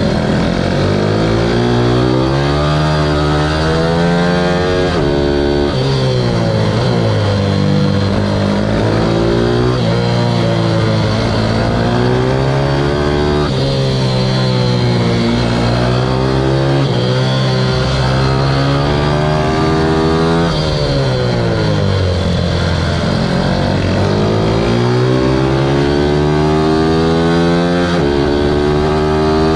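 Ohvale 160 minibike's single-cylinder four-stroke engine heard from onboard under race riding. The pitch climbs again and again and drops sharply each time as the rider shifts gear or brakes for corners, with steady wind and road noise underneath.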